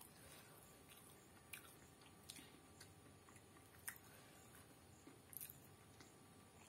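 Faint chewing of crisp fried chicken pakora: a few scattered soft, crisp clicks from the mouth over a quiet room.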